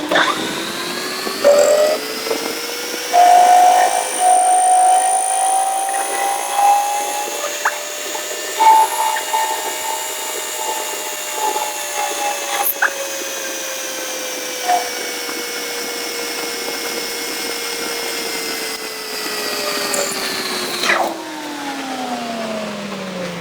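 Electric motor of a handheld power tool spinning up, running steadily with a whine and brief higher-pitched squeals in the first half, then winding down near the end.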